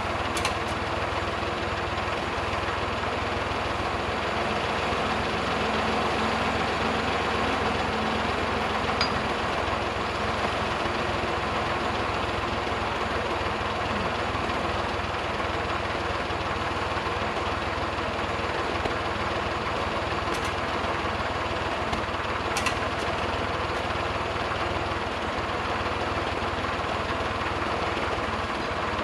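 An engine idling steadily, with an even low hum that doesn't change, and a few faint clicks.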